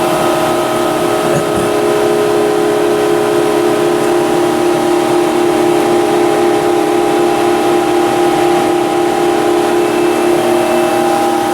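Fadal VMC6030D-3HT vertical machining center standing under power, giving off a steady hum made of several held tones over a hiss from its running equipment.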